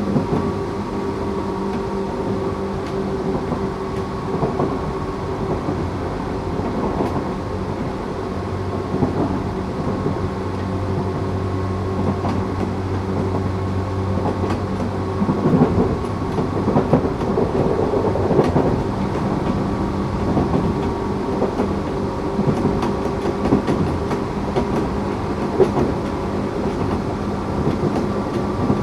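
Tokyu 8500 series electric train with Toyo Denki traction motors running on the line: steady motor and gear tones over the rumble of wheels on rail. A low hum joins in for a few seconds in the middle, and rail-joint knocks and rougher rolling noise come in the second half.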